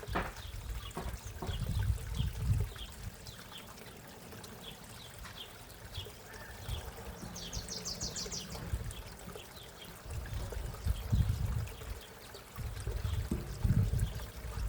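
Backyard koi pond water trickling steadily, with a bird's short high chirps repeating throughout and a quick high trill about halfway. Low rumbles of wind on the microphone swell up now and then.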